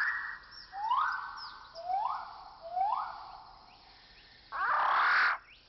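A bird of paradise calling: a rising note repeated about once a second, then a louder, noisier burst lasting under a second near the end.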